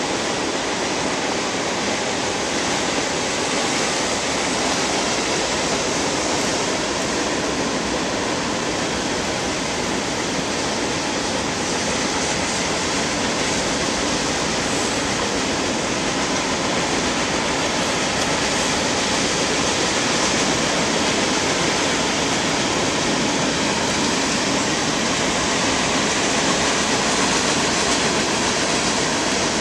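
Freight train cars rolling past, heard from far above: a steady rushing noise of wheels on rail, with no horn or engine note standing out.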